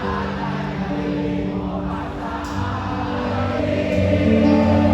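Live band music playing a slow song between sung lines, with many voices singing along; it swells louder near the end.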